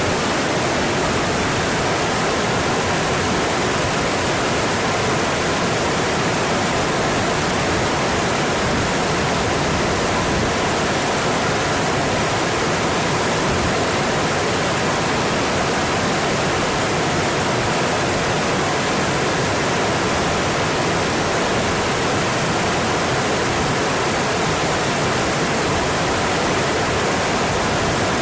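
Mountain stream rushing over its bed: a steady, dense hiss of flowing water with no change in level.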